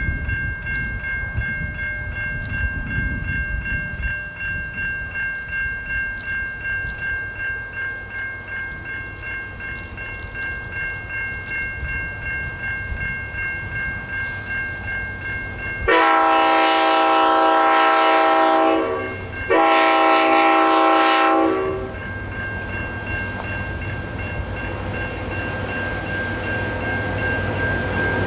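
Diesel-hauled train running past with a rhythmic pulse, then two long blasts on X31's five-chime Leslie RS5T horn, the first about three seconds, the second about two, with a short break between them.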